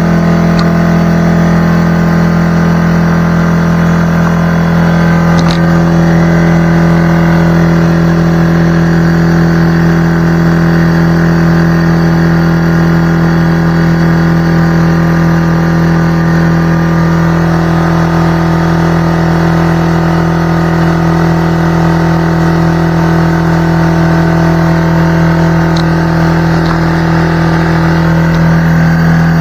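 McGraw 21-gallon air compressor running steadily, a loud, even motor-and-pump hum that keeps one pitch. The tone shifts slightly about two-thirds of the way through.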